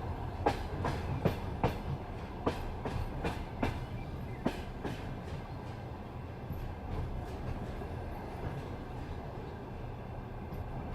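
Passenger train wheels clicking over rail joints and points, a click about every half second over a steady low rolling rumble. The clicks thin out and stop about halfway through, leaving only the rumble.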